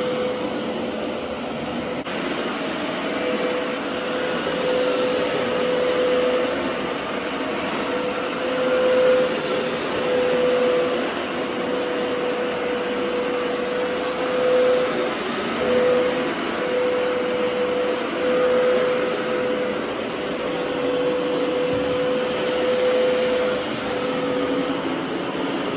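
Hoover carpet washer running steadily, its suction motor giving a constant drone with a mid-pitched hum and a faint high whine, the loudness swelling and dipping slightly as it works the carpet.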